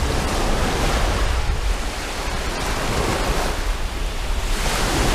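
Sea waves washing in, a steady rushing that swells and eases, with wind buffeting the microphone in a low rumble.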